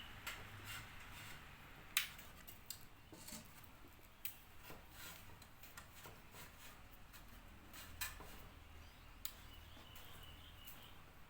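Scattered light clicks and taps of bird-cage parts being handled and fitted together, with a sharper click about two seconds in and another about eight seconds in.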